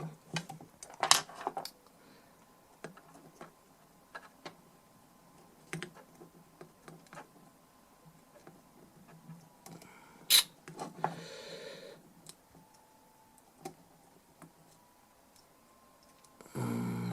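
Scattered light clicks and taps of small hand tools working inside a rusty metal DI box, with a sharper click and a brief rustle just past the middle and a louder rush of noise near the end.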